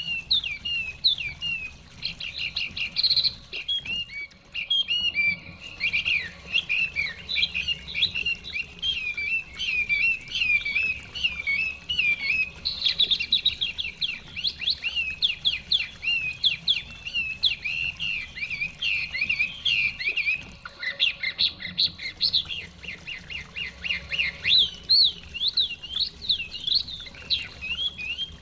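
Chinese hwamei singing a rapid, continuous run of varied whistled phrases, with short pauses about four seconds in and again about twenty-one seconds in.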